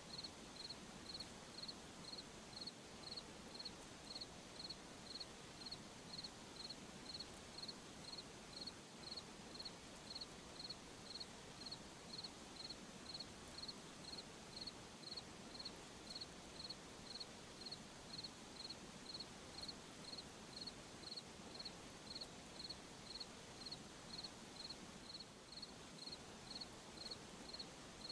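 A cricket chirping in a steady, even rhythm of about two high-pitched chirps a second, over a faint, steady hiss.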